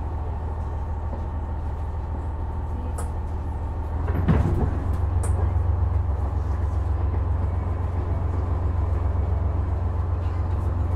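KiHa 126 diesel railcar's engine idling at a standstill; about four seconds in there is a sudden clunk with a short hiss, and the engine then runs louder and steadier as the railcar gets ready to move off again after an emergency stop.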